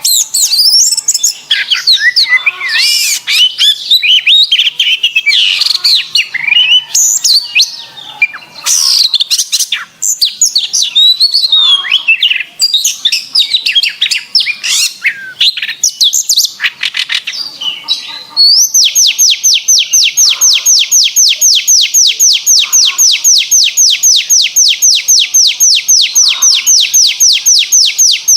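Domestic canary singing a fast, varied warble of chirps and whistles. About two-thirds of the way in it switches to a long, even trill of rapid repeated notes, about seven a second.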